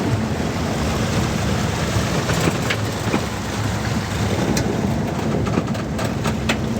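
Motorized river raft's small engine running steadily, with wind buffeting the microphone and a few scattered sharp ticks.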